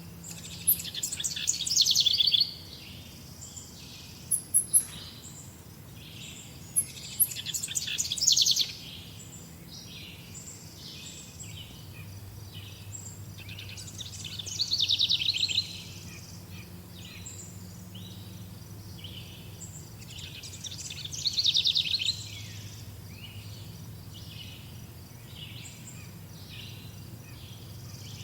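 Birds singing: a loud, rapid trilled phrase of about two seconds comes four times, roughly every six to seven seconds, over softer scattered chirps.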